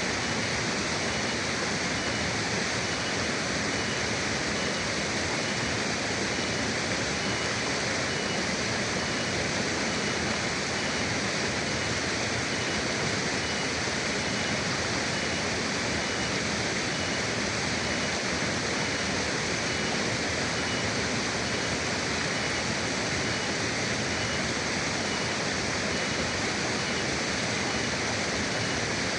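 River water rushing steadily, an even unbroken hiss with no changes.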